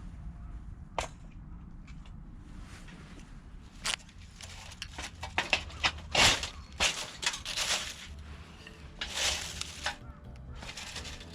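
Wood cracking and snapping: a few sharp cracks, then a dense run of loud snaps about halfway through, over a low steady rumble.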